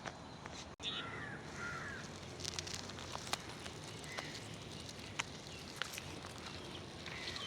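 Forest ambience with a bird calling twice in quick succession about a second in, and a fainter call near the middle, over scattered sharp clicks.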